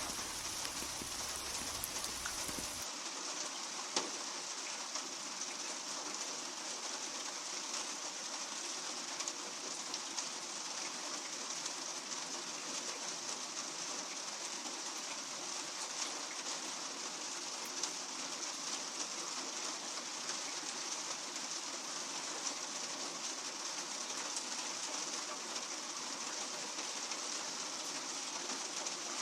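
Steady rain falling on a hard surface: an even hiss with scattered sharper drop ticks. About three seconds in, the deep rumble underneath cuts out suddenly and the rain goes on.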